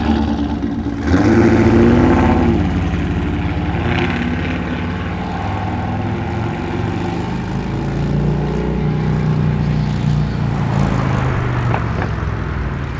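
Holden SS Commodore's V8 running with a lumpy idle as it pulls out, revving up about a second in, then settling into a steady engine note as it drives off.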